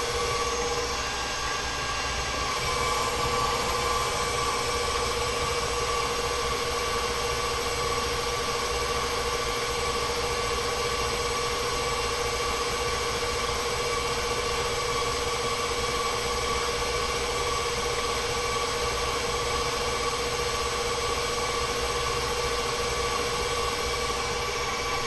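Bowl-lift stand mixer running steadily at speed with a constant motor whine, beating the cookie batter until fluffy. At the very end it is switched off and the whine starts to fall in pitch.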